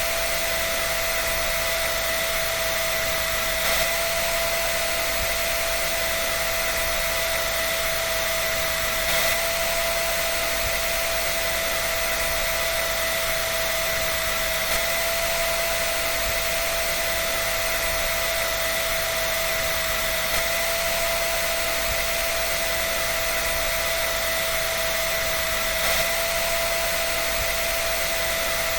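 Electric dryer running steadily: an even, airy hiss with a constant whine, unchanging throughout.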